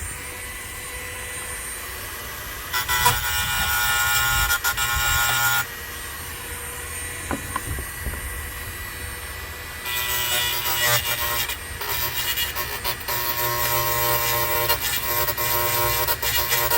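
Hedge trimmer blade teeth being sharpened, a rasping metal-on-metal grind with a ringing tone from the steel bar. It comes in two stretches: one about three seconds in lasting about three seconds, and another from about ten seconds on.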